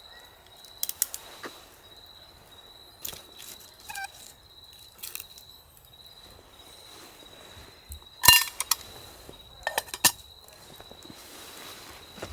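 Scattered knocks and metallic clinks of camp gear being handled, the loudest a ringing metal clink about eight seconds in, with another cluster of knocks shortly after. A steady thin high tone, like an insect's trill, runs underneath.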